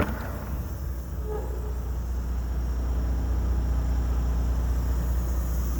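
Steady low drone of the Scania R450 truck's diesel engine idling, growing slightly louder over the first couple of seconds and then holding even.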